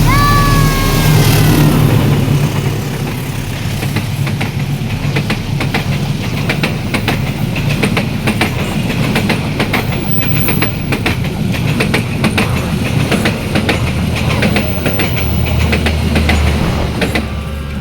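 A diesel locomotive's horn sounding once, its pitch falling as it passes, over the rumble of the engine; then a long passenger train rolling past, its wheels clattering in quick clicks over the rail joints until the train's end goes by near the end.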